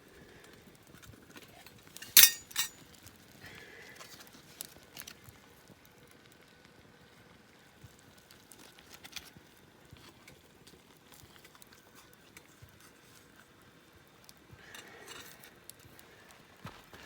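Metal objects clinking: two sharp clinks with a brief ring about two seconds in, then scattered faint taps and knocks.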